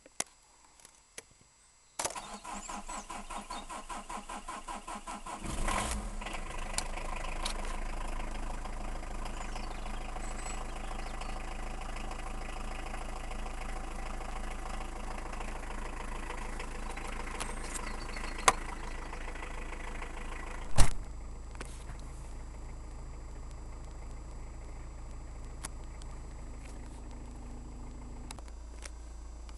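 Peugeot 306 1.9-litre four-cylinder diesel engine cold-started without glow plugs. The starter cranks it in a rhythmic churn for about three and a half seconds, and the engine catches with a loud surge once a little throttle is given, then settles into a steady diesel idle. A sharp click and, a couple of seconds later, a louder sharp knock come about two-thirds of the way through.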